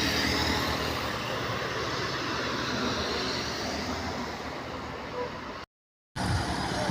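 Heavy truck engine running steadily under load, with a rumble and general hubbub that fade slightly. The sound cuts out completely for about half a second near the end, then resumes.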